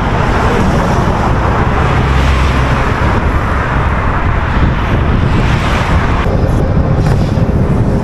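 Steady rushing road noise from riding a bicycle along a highway: wind on the microphone and passing traffic. The higher hiss drops away about six seconds in.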